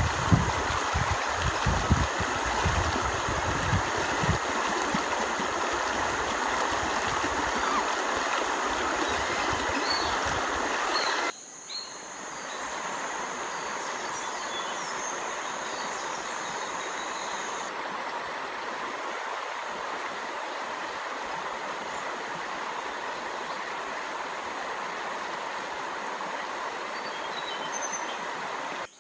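Stream water running steadily, with a few low thumps in the first few seconds. It cuts off abruptly about eleven seconds in and is replaced by a slightly quieter, steady running-water sound.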